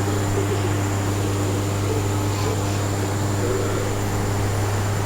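Steady low hum with a faint high whine over an even hiss, unchanging throughout.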